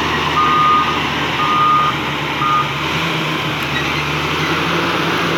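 A truck's reversing alarm beeping about once a second, ending with a short beep about two and a half seconds in, over the truck's engine running steadily.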